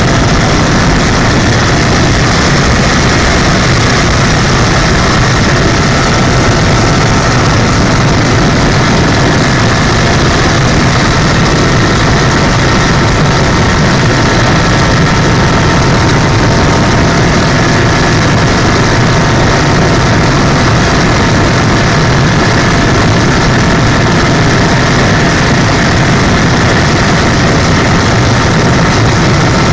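Helicopter in flight: a loud, steady engine and rotor noise, with a few thin, steady high tones running through it.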